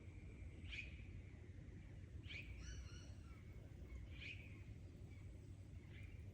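Faint bush birdsong: one bird repeats a short, sharp call about every two seconds, and another adds a brief, quick trill a little after two seconds in, over a steady low rumble.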